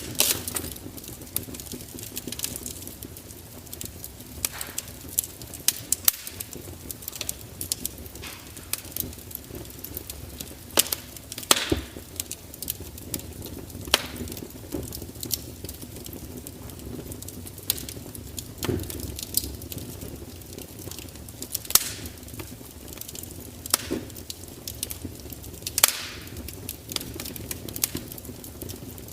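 Wood fire crackling: irregular sharp pops and snaps, a few louder ones scattered through, over a steady low hiss of burning.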